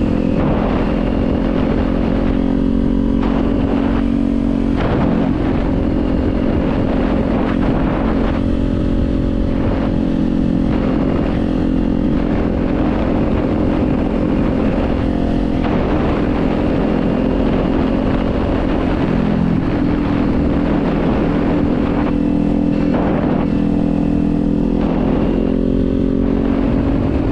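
Kawasaki Z400's 399 cc parallel-twin engine running under way at fairly steady revs, its pitch shifting a little a couple of times, with wind noise over it.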